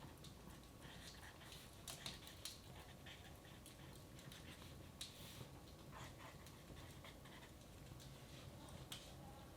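Wood fire in a fireplace crackling faintly, with a handful of scattered pops and snaps over a low steady room hum.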